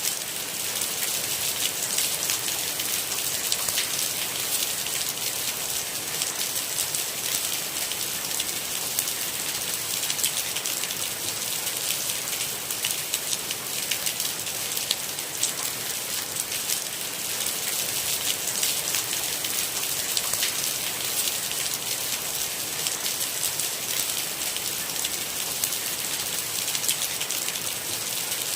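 Steady rain falling, a constant hiss dense with the small ticks of individual drops striking a surface, with no thunder.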